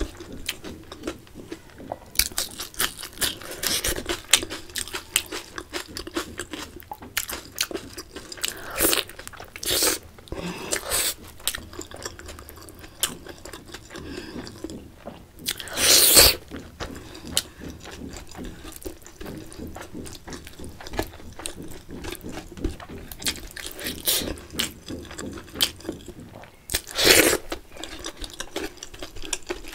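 Close-miked eating sounds: chewing, crunchy bites and wet mouth clicks as a person eats rice, egg curry and fried chicken by hand. Two louder bursts come about halfway through and near the end.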